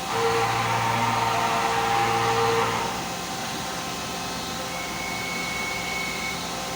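Five-axis CNC machine's motors running with a steady hum and whine. It runs louder for the first three seconds, then drops to a quieter steady level, and a higher thin whine comes in about five seconds in.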